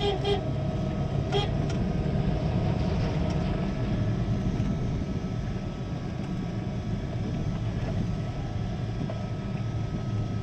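A truck driving with steady engine and road rumble, with a couple of brief horn toots about a second in.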